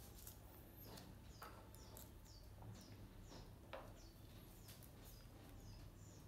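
Faint, short high chirps sweeping downward, repeating about twice a second, over a steady low hum, with a sharp click a little past halfway.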